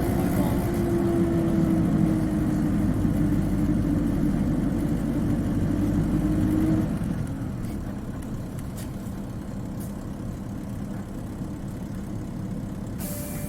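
Isuzu Cubic KC-LV380N city bus engine heard from inside the bus, pulling with a steady whining tone that slowly falls in pitch, then easing off about seven seconds in to a quieter run. A burst of air hiss starts near the end.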